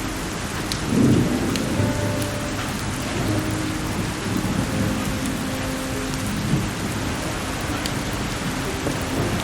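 Steady heavy rain with a low rumble of thunder that swells about a second in and rolls on more softly afterwards. A few faint crackles of burning firewood sit in the mix, over soft music with held notes.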